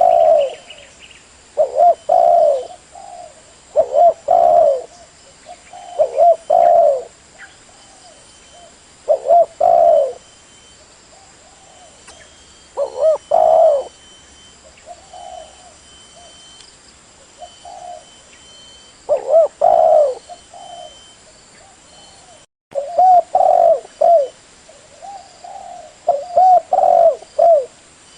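Spotted dove cooing: short repeated coo phrases about every two seconds, with a couple of longer pauses and a brief cut in the sound about two-thirds of the way through.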